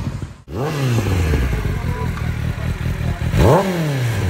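Kawasaki ZX-10R inline-four with a Leo Vince slip-on exhaust, revved with two throttle blips: one about half a second in and one near the end. Each time the pitch rises sharply, then falls back to a steady idle.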